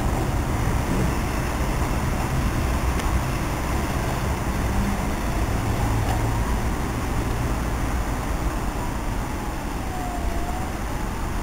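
A passenger train pulling away along the tracks: a steady low rumble, with a faint high whine that dips in pitch and rises again near the end.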